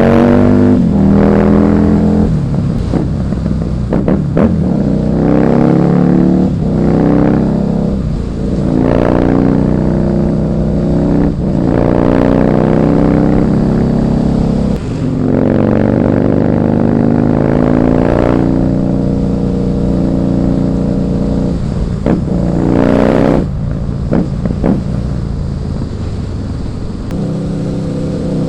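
Husqvarna Nuda 900R's parallel-twin engine under way, its pitch climbing and breaking off again and again as it accelerates through the gears, with longer steadier stretches in between.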